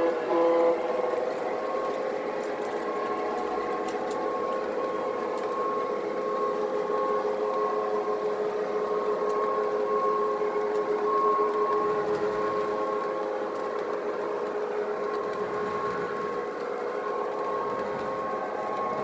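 Lionel O-gauge Santa Fe diesel model train running on its track with a steady motor and gear whine. The tail of a horn blast cuts off within the first second.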